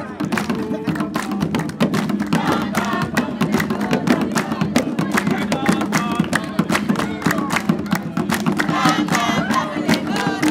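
Drums beaten in a fast, dense rhythm, with a group of people singing and shouting over them.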